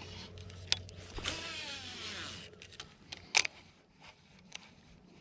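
Fishing reel spool whirring as a lure is cast, its whine falling in pitch as the spool slows, followed by a sharp click about a second later.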